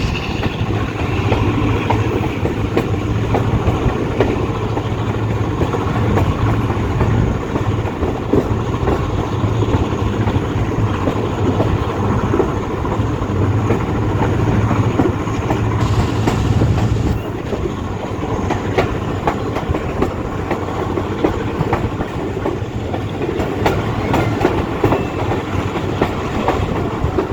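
Passenger train running at speed, its wheels clicking and clattering over the rail joints above a continuous rumble and low hum.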